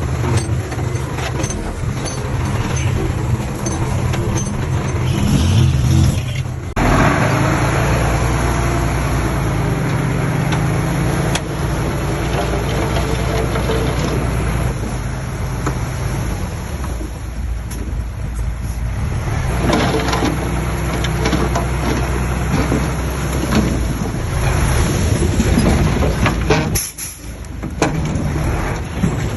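Diesel engines of dump trucks and a small bulldozer running steadily. The sound changes abruptly about a quarter of the way in and dips briefly near the end.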